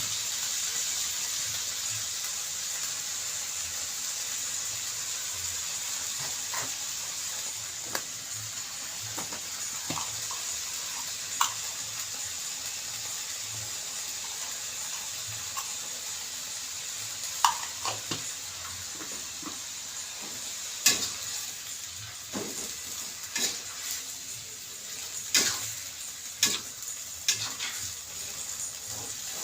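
Food sizzling steadily in a hot pan while being stir-fried, with sharp knocks and scrapes of a spatula against the pan that come more often in the second half.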